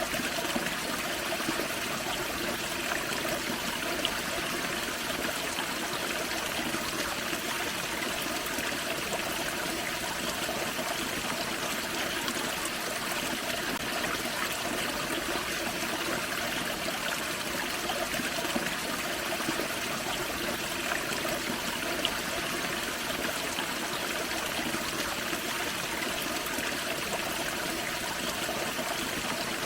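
Small forest-creek waterfall: water splashing and trickling over rocks in a steady, even rush, with a few faint drips and splashes standing out now and then.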